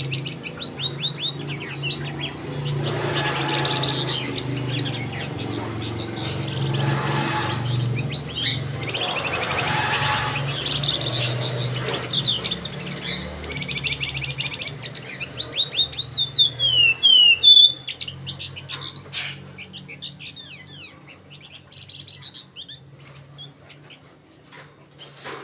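Male flamboyan songbird singing hard, in fast chattering runs of high chirps (crecetan), with a string of falling notes about two-thirds of the way through, over a steady low hum.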